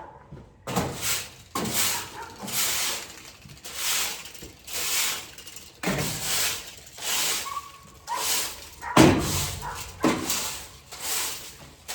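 Rake scraping manure across a barn floor in steady strokes, about one a second, with a louder knock about nine seconds in.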